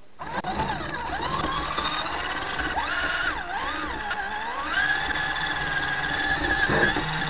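A car's engine and drivetrain heard from inside the cabin while driving slowly, with a whine that rises and falls in pitch a few times before holding steady about halfway through, over a low road rumble.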